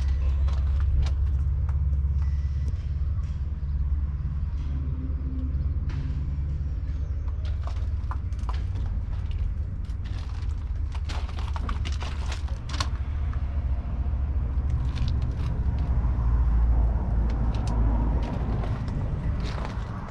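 John Deere 6120M's 4.5-litre four-cylinder diesel engine running with a steady low rumble, swelling louder about three quarters of the way through, with scattered light clicks and knocks over it.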